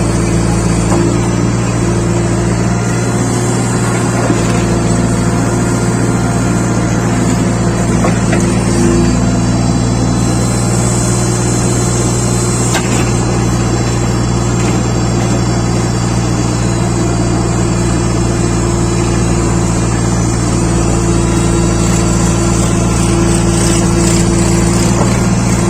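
Heavy diesel engine running steadily at a constant speed, with no revving.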